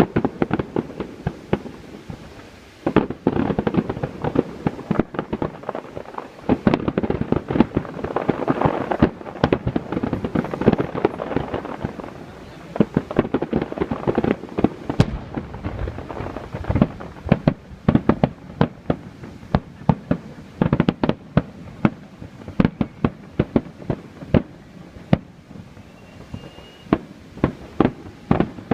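Aerial fireworks display: shells bursting in rapid, overlapping succession with sharp bangs and crackle, thickest in the first half and thinning to more separate bangs toward the end.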